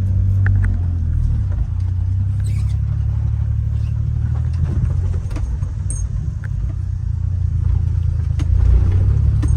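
Honda kei mini truck's small engine pulling steadily in second gear as the truck drives off, heard from inside the cab as a low drone, with a few light clicks and rattles.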